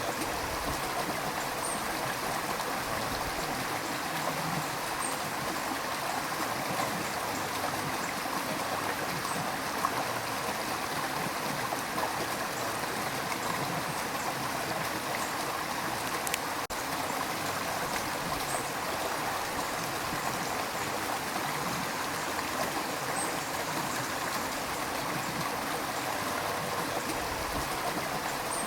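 River water rushing and gurgling over stones in a steady, unbroken wash.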